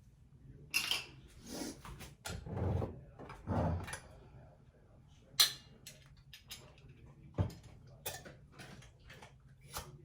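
Kitchen handling sounds: a string of clicks and knocks from things being handled and set down, the sharpest about five and seven seconds in, over a faint steady hum.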